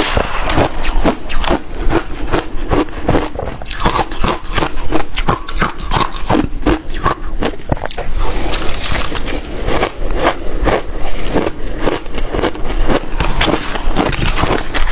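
Ice being bitten and chewed: a quick, irregular run of crunches.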